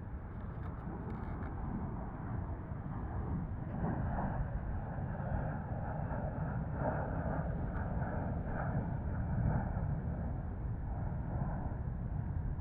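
Strong wind buffeting the microphone, with a faint high whine that slowly falls in pitch from about four seconds in.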